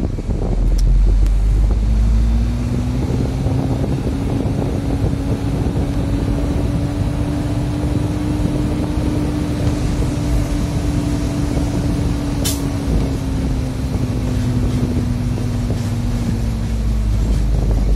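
Heavy diesel truck engine running under load as the truck drives slowly, its pitch rising gently and then easing off again. A brief sharp hiss about twelve seconds in.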